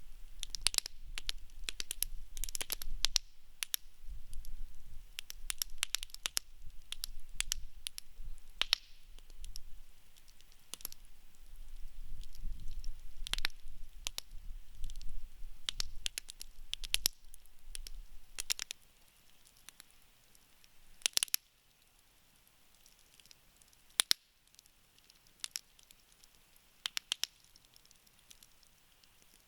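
Wood campfire crackling and popping with many sharp snaps, over a low rumble that drops away about two-thirds through, leaving fewer, separate pops.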